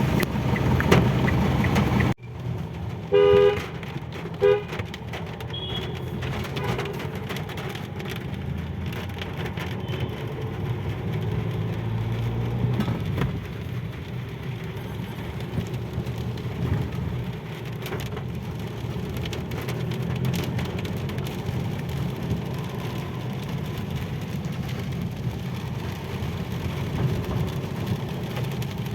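Steady low rumble of a vehicle in rainy traffic. A car horn toots twice, briefly, about three and four and a half seconds in. A louder noisy stretch at the start cuts off sharply at about two seconds.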